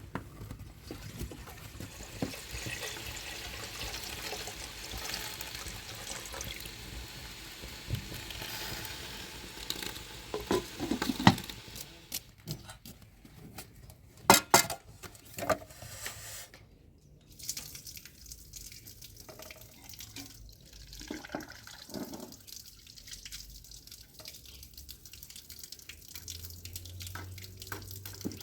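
Water running and splashing for the first ten seconds or so, then scattered sharp knocks and clatters, the loudest about eleven and fifteen seconds in.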